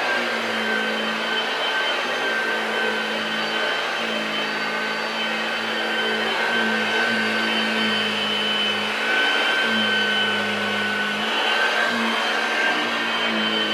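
Hoover Model 1348 lightweight upright vacuum cleaner running steadily: a continuous motor hum with a high, even whine over it.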